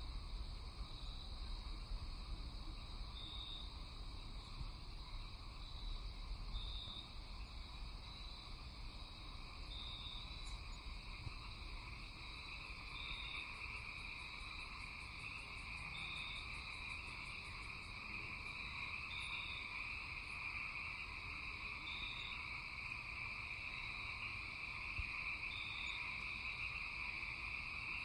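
Night chorus of calling insects and frogs: a steady high trill that swells from about halfway through, with a short high chirp repeating every second or two over it.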